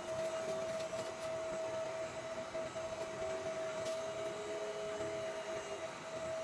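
Sculfun diode laser cutter running on a job: a steady whine over an even hiss from its motors and cooling fan.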